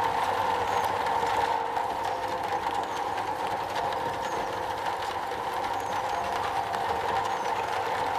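Steady rain falling on a metal roof, an even continuous patter at a constant level.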